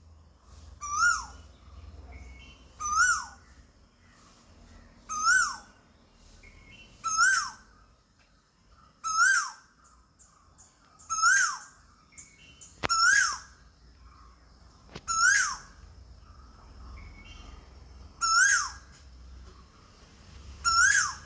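A quail calling about ten times, roughly every two seconds, each a single short note that rises briefly and then drops sharply in pitch.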